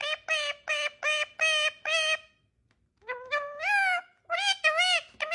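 Pet parrot calling or chattering: a quick run of short, high-pitched syllables, a brief pause about two and a half seconds in, then more syllables, some sliding upward in pitch.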